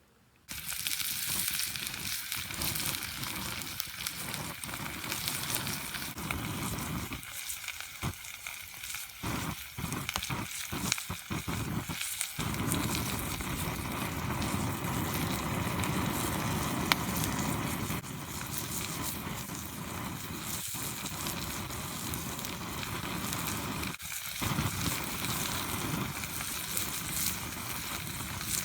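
Food sizzling over a crackling campfire: a steady hiss with scattered crackles, broken by several brief drop-outs in the first half.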